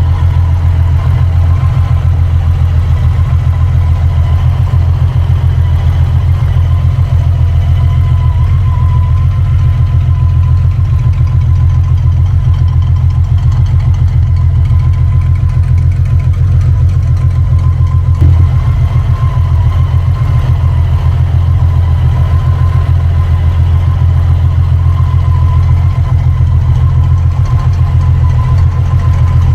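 Honda Valkyrie Rune's 1800cc horizontally opposed six-cylinder engine idling steadily, with a deep, even exhaust note.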